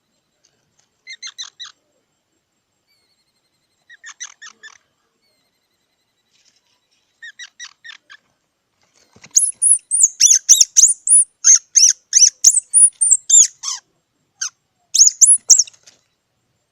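Squirrel calling: short groups of three to five chirps about every three seconds, then, from about nine seconds in, a louder, fast run of high squeaks lasting several seconds, and another short run near the end.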